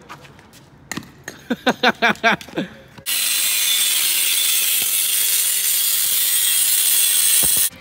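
A metal cut-off tool cutting into a seized old car alternator: after a few knocks and short squeaks, a loud, steady, harsh hiss starts suddenly about three seconds in and cuts off just before the end.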